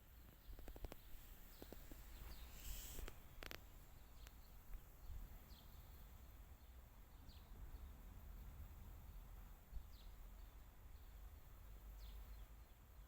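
Faint outdoor ambience with a low rumble, and a bird giving short, high, falling chirps every couple of seconds. A few light clicks in the first three seconds or so.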